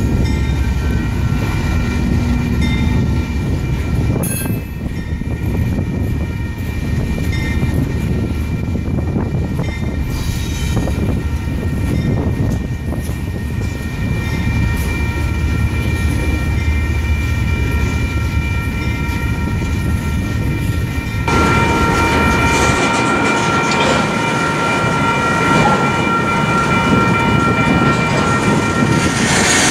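Double-stack intermodal freight train rolling past, a steady rumble and clatter of wheels on rail with several steady high-pitched tones ringing over it. About two-thirds of the way through, the sound changes abruptly and becomes brighter and louder.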